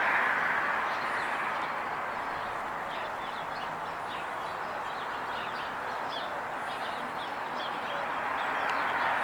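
Road traffic noise from a passing vehicle, fading away over the first few seconds and building again near the end as another approaches. Through the middle, a small bird chirps repeatedly in short high notes.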